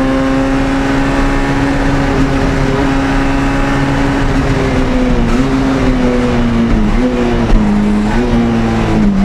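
Citroën Saxo A6 rally car's four-cylinder engine, heard from inside the cabin, holding high, nearly steady revs on a straight. From about halfway the pitch drops in steps with short blips: braking and downshifting for a chicane.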